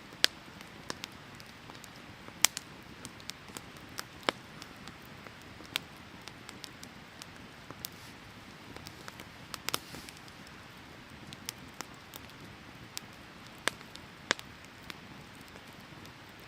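Firewood burning in a fire pit, crackling with irregular sharp pops and snaps, over the steady rush of a stream.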